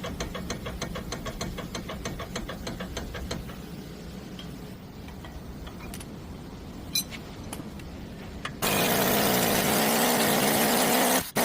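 Car engine running with an even ticking of about four a second. About eight and a half seconds in, a much louder rushing noise starts suddenly and carries on with brief dropouts near the end.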